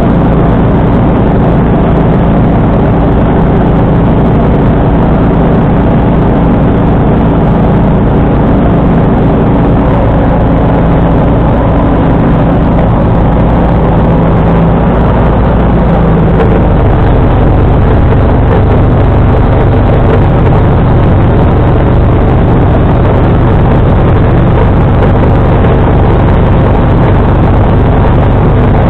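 John Deere 445 garden tractor's engine running steadily under load with a 47-inch snowblower. About halfway through, the engine note changes and settles lower.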